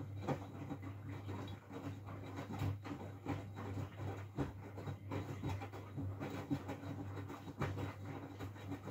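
Miele W433S front-loading washing machine turning its drum through a wash stroke in the main wash: a steady motor hum, with laundry tumbling and water sloshing in many irregular slaps and knocks.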